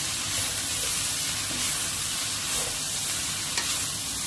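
Egg noodles and vegetables sizzling steadily in a hot oiled wok as they are stir-fried with a wooden spatula, with a short tap near the end.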